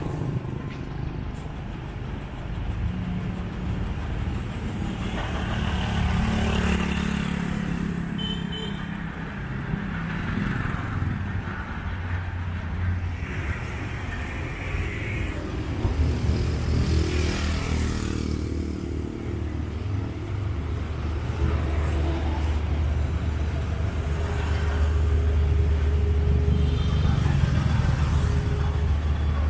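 Street traffic: cars and motorbikes running past one after another, their engine rumble swelling and fading as each goes by.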